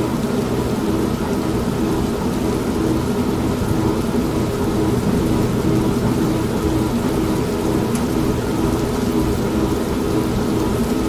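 An old washing machine running with a steady motor hum, mixed with rain and low thunder.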